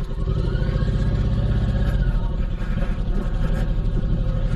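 Honda VTX1800C's big liquid-cooled V-twin engine running at low speed off-road, its note swelling and easing in the first couple of seconds.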